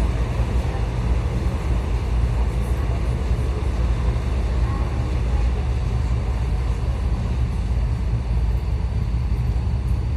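Steady low rumble and noise inside a suburban electric train carriage.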